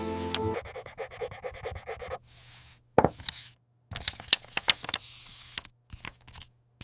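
Background music ends about half a second in, then a fast run of light wooden-sounding clicks or taps, followed by a sharp knock and a few scattered taps and scrapes with short silent gaps between them.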